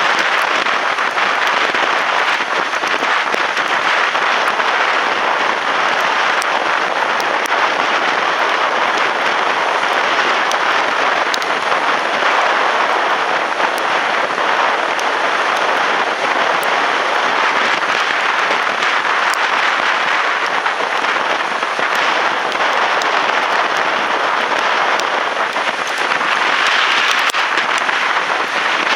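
Strong wind blowing: a loud, steady rush with a fine crackle running through it.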